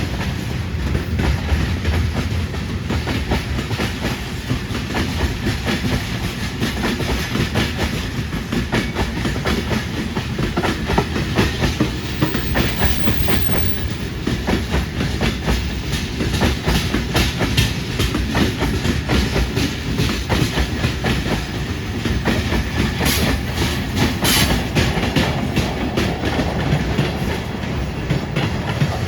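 Freight train wagons rolling past, their wheels clattering over the rail joints in a rapid, continuous clickety-clack over a low rumble.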